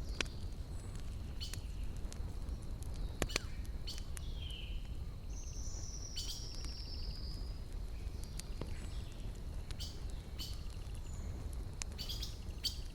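Wood campfire crackling, with sharp pops scattered through over a steady low rumble. In the middle a bird gives a short call, then a slightly falling trill.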